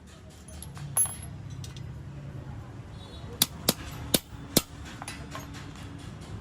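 Five sharp knocks on metal, one about a second in and four close together a little past halfway, over a low steady background hum.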